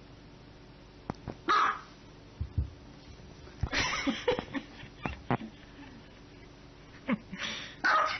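Small white dog barking in short, sharp, high yaps, a few at a time with pauses of about two seconds between, two barks close together near the end.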